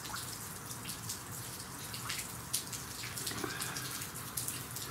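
Steady rain falling, with scattered sharper drip sounds standing out from the steady patter.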